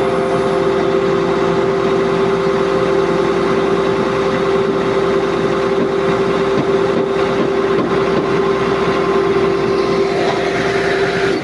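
Boom truck engine running with its PTO-driven hydraulic pump making a loud, steady whine while the outrigger is hydraulically retracted. The whine cuts off suddenly at the end.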